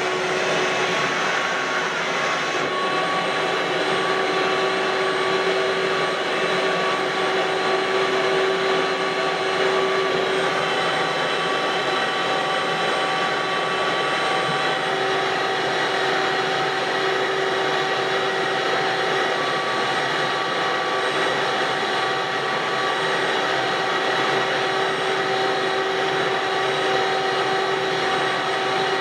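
Ridgid WD1450 wet/dry shop vacuum running steadily: a continuous rush of air with a motor whine. The hiss turns slightly duller about three seconds in.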